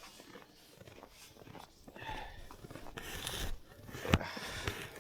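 Footsteps crunching and packing through deep snow, starting about two seconds in and going irregularly, with one sharper thump about four seconds in.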